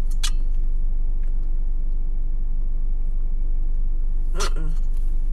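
Steady low rumble of a car's idling engine heard from inside the cabin. A sharp crinkle of a snack wrapper just after the start, and a short vocal noise near the end.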